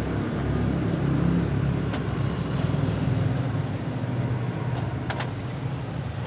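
Small carbureted car engine with a two-barrel carburetor, idling steadily; a couple of faint clicks come near the end.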